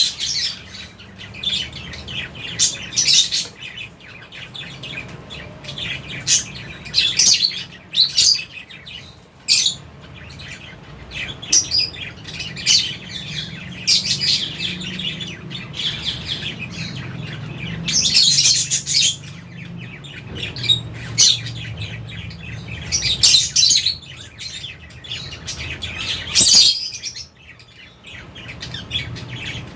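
A flock of lovebirds chirping: many short, shrill calls overlapping in quick bursts, with a faint low hum beneath.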